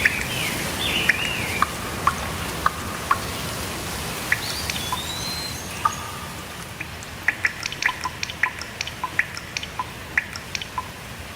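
Steady rain with water drops dripping, the drips coming thick and fast in the second half, while birds chirp and whistle in the first half.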